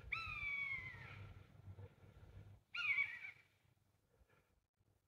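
A big bird calling twice from below, a falling cry about a second long at the start and a shorter one about three seconds in; by its caller's reading the bird is agitated, annoyed by something.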